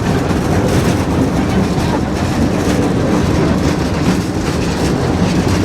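Tourist train running along the track: a steady, loud noise of wheels on rails.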